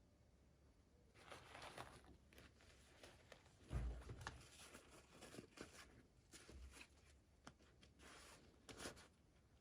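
Faint rustling and crinkling of toy packaging being handled and opened, in irregular short scratchy bursts, with a soft low bump about four seconds in.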